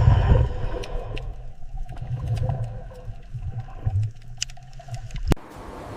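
Sea lion calling with a run of low, repeated grunts and barks. A single sharp click sounds a little after five seconds.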